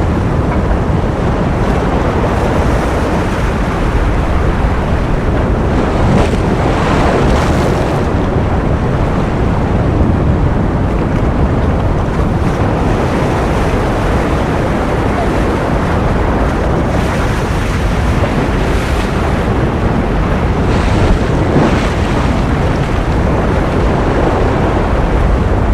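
Ocean surf: a continuous, steady wash of wave noise, heaviest in the low end, with a few waves swelling brighter now and then.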